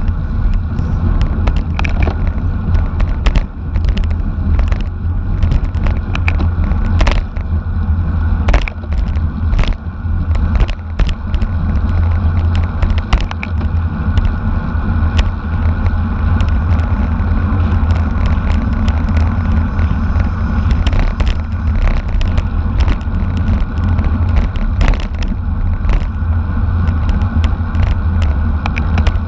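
Wind buffeting the microphone of a camera on a racing bicycle at speed, a steady low rumble, with frequent sharp clicks and knocks from road vibration and the bike's rattling parts.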